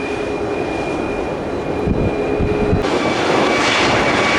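Jet airliner engines running, a broad rush with a thin whine that shifts pitch near the end, under gusty wind buffeting the microphone.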